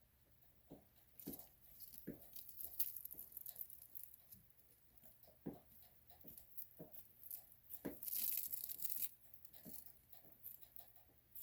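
Leopard gecko shedding its skin: dry old skin crackling and tearing in scattered crunchy clicks, with a longer tearing rasp about eight seconds in.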